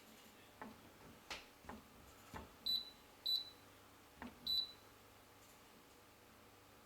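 Buttons being pressed on an AEG microwave's control panel: a string of sharp taps, three of them answered by a short, high beep, the rest drawing no beep.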